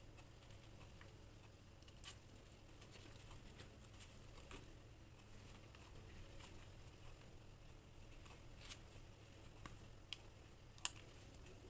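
Near silence with a low hum and a few scattered short clicks, the loudest near the end.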